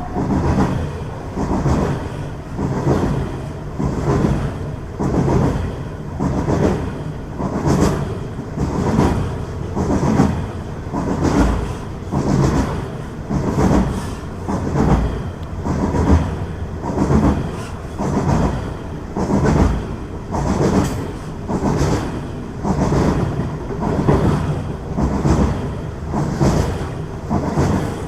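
A train passing through the station, its wheels clacking in a steady rhythm over the rail joints, about one beat a second, over a low running hum.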